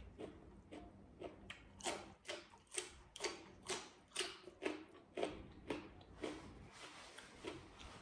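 A person chewing crunchy food in the mouth, close to the microphone, at about two crunching chews a second, starting about two seconds in.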